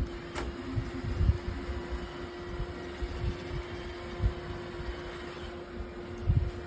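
Robot vacuum running: a steady motor hum with one constant tone and a hiss, with irregular low thumps.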